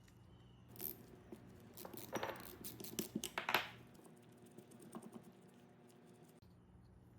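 Small metal parts clinking and clattering as they are handled, in a quick cluster of sharp clicks a second or so in, with one more click a little later.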